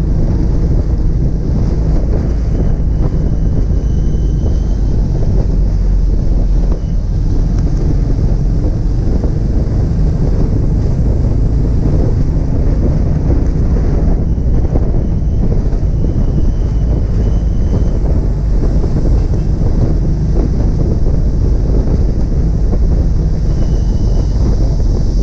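Wind buffeting the microphone over the steady low rumble of a vehicle driving on the road.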